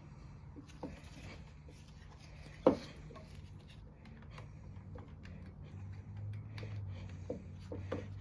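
Small parts and tools being handled during carburetor reassembly on a Tecumseh mower engine: scattered light clicks and rubbing, with one sharp knock about two and a half seconds in, over a steady low hum.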